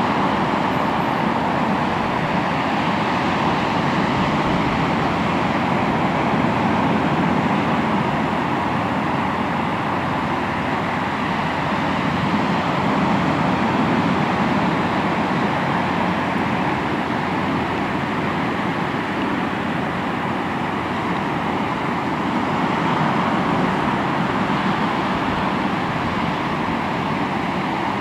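Sea waves breaking and washing on a shore: a steady surf roar that swells and eases every several seconds.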